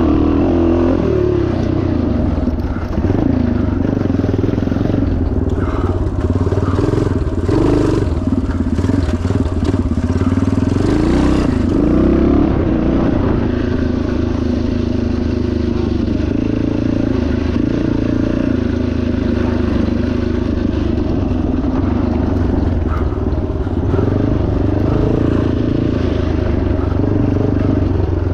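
Yamaha TT500's single-cylinder four-stroke engine running hard off-road, its pitch rising and falling with the throttle. Scattered knocks and rattles from the bike come about six to twelve seconds in.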